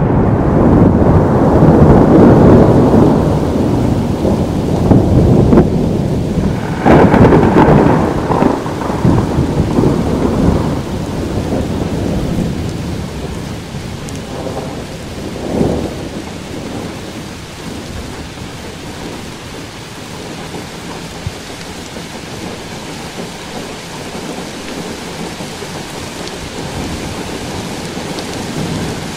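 Thunderstorm: a long, loud roll of thunder over steady rain, with a sharp crack about seven seconds in and a shorter clap near the sixteen-second mark. After that the thunder dies down and steady rain carries on.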